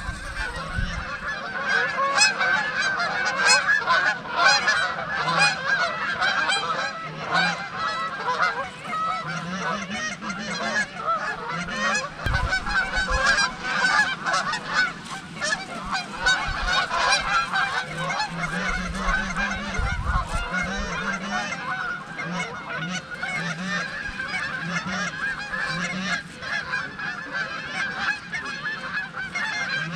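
A large flock of geese honking continuously, many overlapping calls at once.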